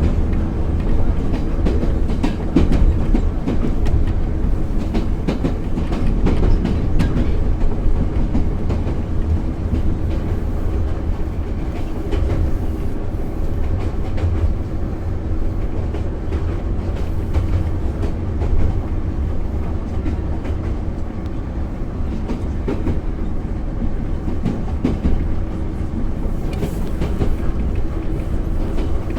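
Moscow metro 81-717/714 'Nomernoy' train running at speed, its wheels knocking rhythmically over the rail joints, over a steady rumble and hum.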